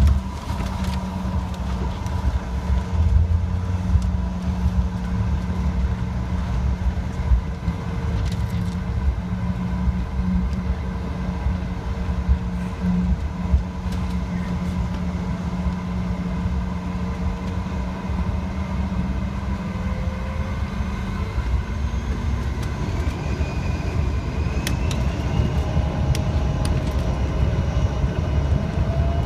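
Steady low hum inside a Bombardier CRJ-900 cabin on the ground; about two-thirds of the way through the hum cuts out and a thin whine begins rising steadily in pitch as a jet engine spools up to start.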